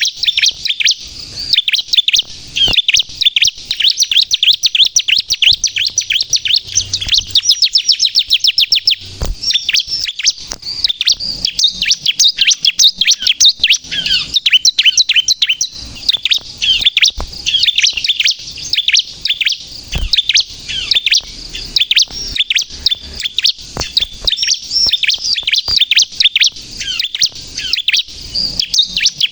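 Bar-winged prinia (ciblek) singing nonstop, a dense stream of rapid high chirps and trills with a fast run of notes a few seconds in.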